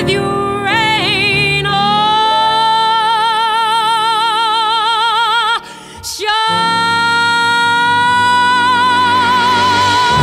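A woman singing a jazz standard, holding two long notes with wide vibrato and taking a brief break between them, about halfway through.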